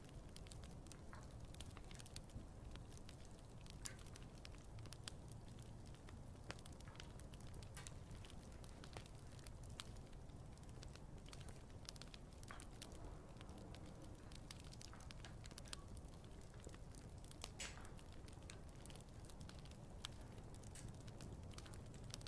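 Wood campfire burning faintly: a soft, steady low rumble with irregular sharp crackles and pops from the burning wood.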